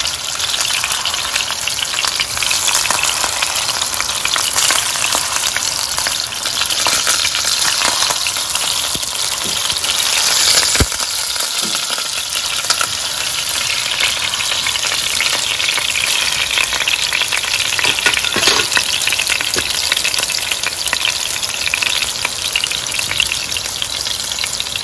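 Chicken meatballs shallow-frying in hot oil in a nonstick frying pan, sizzling steadily as they brown on high heat, while a silicone spatula turns them. A single sharp knock about eleven seconds in.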